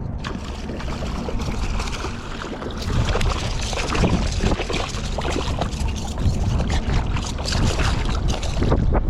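Strong wind buffeting the microphone in a steady low rumble, with water splashing and slapping irregularly against a kayak hull on choppy water.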